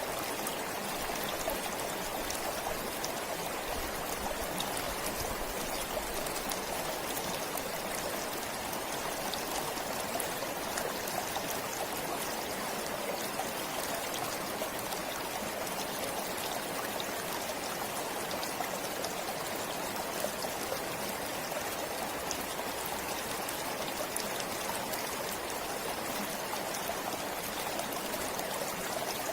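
A forest stream flowing and trickling steadily, with a dense patter of small splashes.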